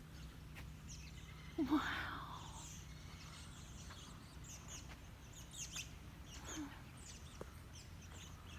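A huge roosting flock of birds calling: many faint, scattered chirps and whistles over a low steady rumble.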